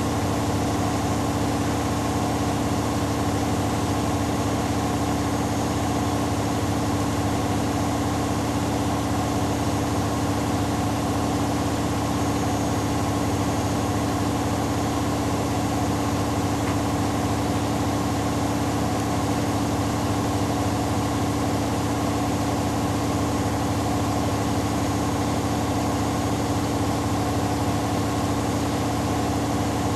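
Washing machine on its final spin at a steady high speed: an even motor and drum hum with a fixed tone.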